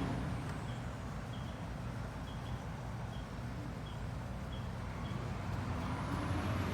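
Garbage truck's diesel engine running steadily, with faint short high chirps now and then.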